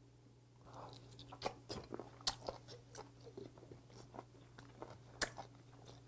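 Close-miked chewing of a piece of raw webfoot octopus (jjukkumi) dipped in chili sauce: irregular clicks and squelches from the mouth, over a faint steady low hum.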